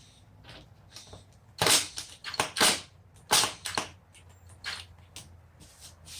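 A series of sharp, irregularly spaced knocks and clacks, the loudest about two seconds in and again near three and a half seconds, over a faint low hum.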